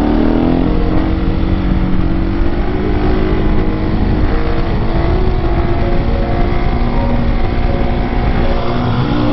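Husqvarna 701 supermoto's single-cylinder engine running under way, its pitch sliding down at the start and then holding fairly steady with small rises and falls, over a heavy low wind rumble.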